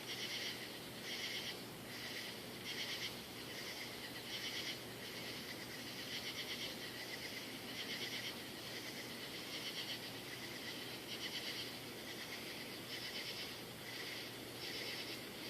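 A chorus of night insects calling outside an open window, in short pulsed bursts of about half a second that repeat roughly once a second and overlap.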